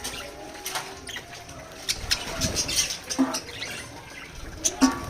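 Pet budgies and lovebirds at bath time, giving short, irregular chirps and calls mixed with wing flutters and light pattering.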